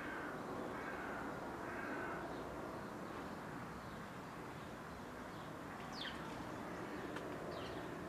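Birds calling over steady outdoor background noise: three short, rough calls in the first two seconds, then a couple of quick, high, falling chirps near the end.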